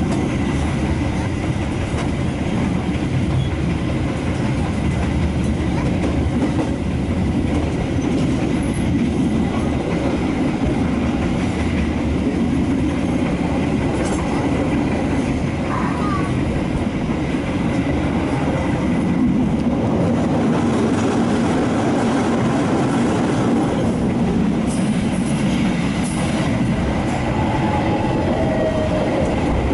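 Kereta Api Indonesia passenger train running at speed, heard from inside the carriage: a steady rumble of wheels on the rails, even in level throughout.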